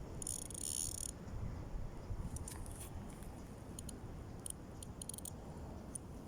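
An insect, cricket-like, gives a short rasping high chirp just after the start, followed by scattered faint high ticks, over a low rumble of wind buffeting the microphone.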